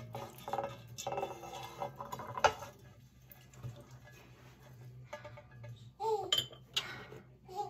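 Dishes and cutlery clinking and clattering as they are handled, with one sharp clatter about two and a half seconds in.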